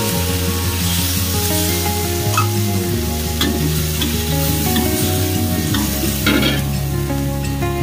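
Pork sizzling in a hot steel wok as gravy mixture is poured in and stirred with a metal spatula. A few scrapes of the spatula against the wok stand out from the sizzling, the loudest about six seconds in.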